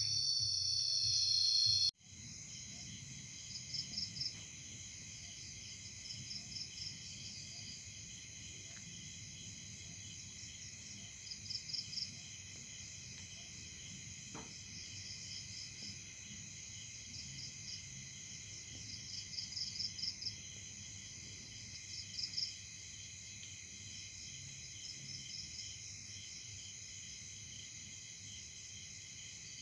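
Chorus of crickets and other insects: a steady high-pitched drone, with short pulsed trills standing out every two to three seconds. It is preceded by a louder high tonal sound that cuts off abruptly about two seconds in.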